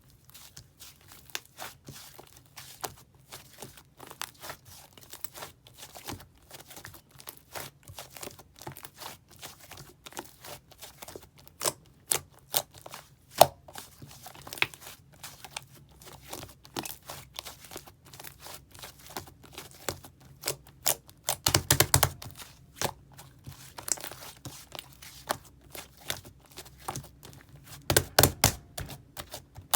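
Clay slime being squeezed, poked and stretched by hand, giving a dense run of small crackles, clicks and pops, with louder clusters of crackling about two-thirds of the way through and again near the end.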